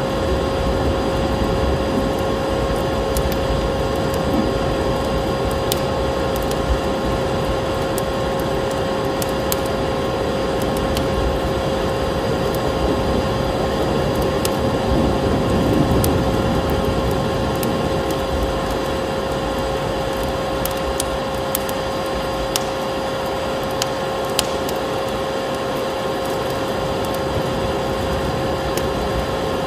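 Steady vacuum cleaner motor hum with rushing air, layered with the scattered pops and crackles of a wood fire.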